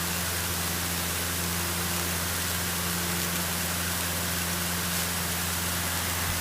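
Steady drone of a Cessna 152's four-cylinder Lycoming O-235 engine and propeller in level cruise, with an even hiss of airflow, heard inside the cabin.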